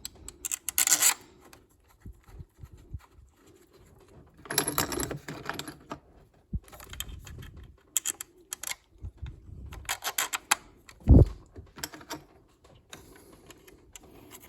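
Metal hand tools and small engine parts clinking and rattling as they are handled, in short scattered bursts, with a single dull thump about eleven seconds in.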